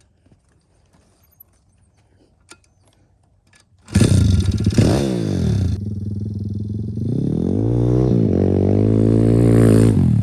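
A few faint clicks against near quiet, then about four seconds in the pit bike's small single-cylinder four-stroke engine cuts in loud, revving up and down as it is ridden. Its pitch rises and falls several times, climbing again near the end.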